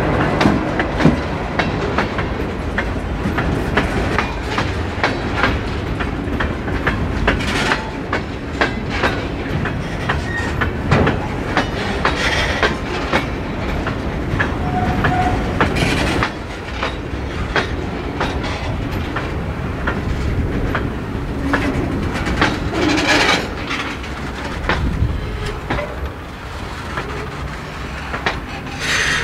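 A train rolling past: covered hopper cars and then passenger coaches, their steel wheels clacking over the rail joints in a continuous stream of clicks.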